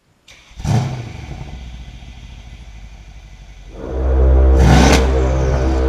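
Modified twin-turbo V8 of a Mercedes-AMG E63 S wagon, fitted with upgraded Weistec turbochargers, downpipes and exhaust, running. A sharp burst comes about half a second in, then a steadier lower running, and about four seconds in it surges much louder, with another sharp burst near the end.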